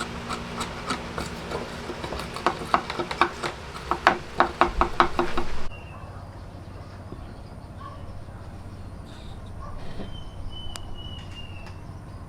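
Quick repeated scraping strokes of a hand tool working wood, growing louder, then cut off abruptly about halfway through. A quieter background follows, with a few faint ticks and a short high falling whistle near the end.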